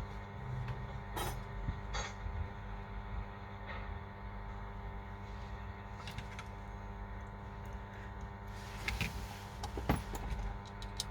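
Steady electrical hum with scattered small clicks and taps, and a brief rustle about nine seconds in.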